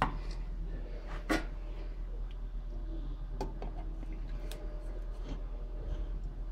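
A few scattered sharp clicks and knocks of metal espresso gear being handled, over a steady low hum.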